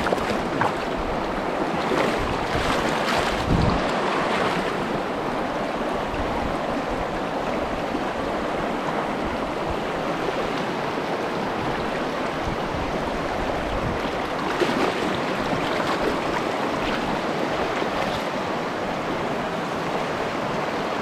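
Steady rush of a fast mountain stream's water, mixed with wind buffeting the microphone. A few short louder knocks or splashes stand out in the first few seconds and again about fifteen seconds in.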